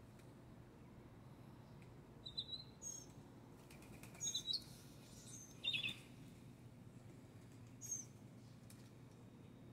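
Small birds chirping: a few short, high, scattered chirps, several coming in quick pairs, over a steady low background hum.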